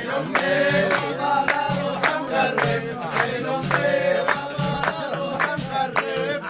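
Rababa, the Bedouin bowed one-string fiddle, playing a gliding folk melody with a steady beat of sharp clicks about three times a second, in a short stretch between sung verses.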